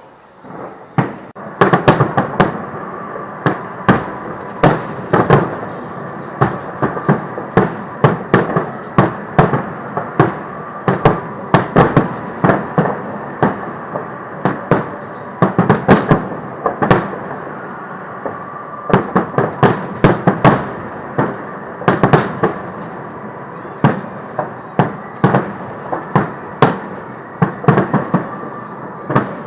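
Fireworks display: a rapid, unbroken run of bangs and crackles, several a second, starting about a second and a half in.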